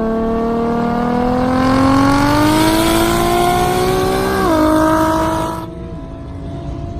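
A car engine accelerating hard, its note climbing steadily for about four seconds, then dropping sharply about four and a half seconds in. Near the end it gives way to a quieter, steady engine note.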